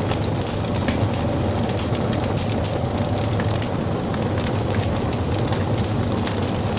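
Wood fire burning with a steady low rush of flames and frequent small crackles and pops from the burning wood.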